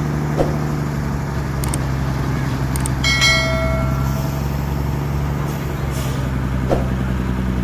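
Large truck diesel engine running steadily. About three seconds in, a brief high-pitched tone sounds for about a second, and a couple of faint clicks come and go.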